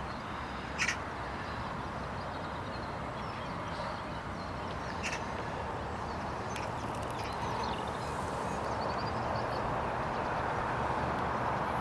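Steady rushing of a river in flood, slowly growing louder toward the end as the water runs high over its banks toward a raging weir.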